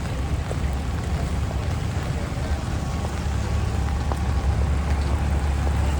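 Rainy city street ambience: a steady low rumble of traffic under a hiss of rain and wet pavement.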